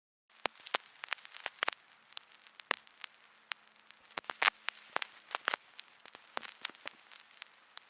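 Irregular crackling: sharp clicks and pops at uneven intervals over a faint hiss, with a faint steady low hum underneath.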